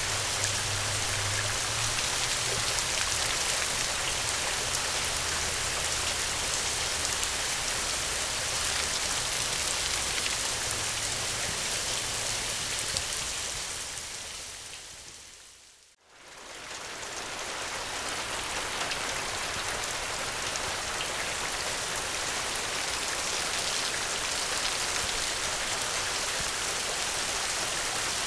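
Steady rain falling, an even hiss. About fourteen seconds in it fades out to a moment of silence, then fades back in over a couple of seconds. A low hum sits underneath during the first half.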